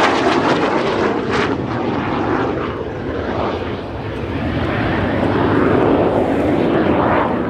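Douglas A-4 Skyhawk jet making a high-speed pass: a loud, continuous engine roar that eases slightly partway through and swells again.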